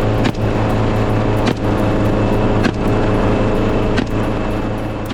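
Helicopter running, a loud steady drone of engine and rotors, with a brief click about every second.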